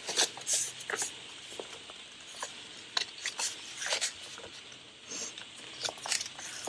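Paper being handled at a craft table: scattered rustles and light taps as a trimmed sheet is moved and fitted into place.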